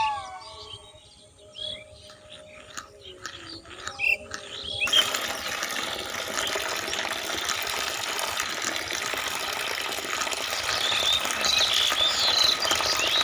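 Water running and splashing steadily, starting about five seconds in after a few faint clicks. Birds chirp near the end.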